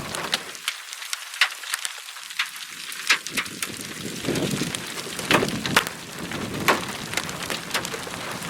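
Hailstones striking at irregular intervals, several sharp knocks a second, over a steady hiss of rain.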